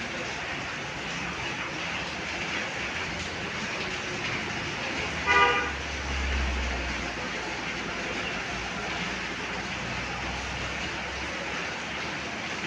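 Heavy rain falling steadily, with one brief horn toot about five seconds in, followed by a low rumble lasting a second or two.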